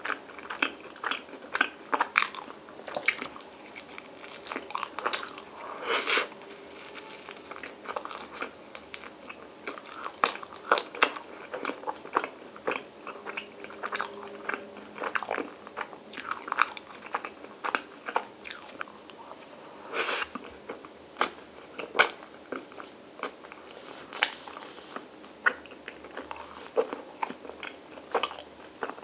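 A person biting and chewing soft white bread spread with Nutella and vanilla ice cream: a string of irregular, sharp mouth clicks.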